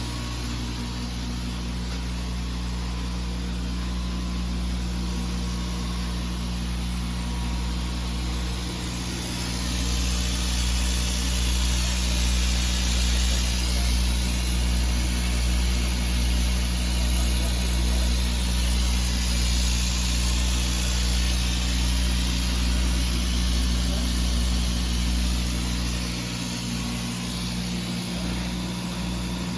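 Laser cutting and engraving machine running with its fans and pumps, a steady low hum. From about 9 seconds in until about 26 seconds a louder hiss of air joins it.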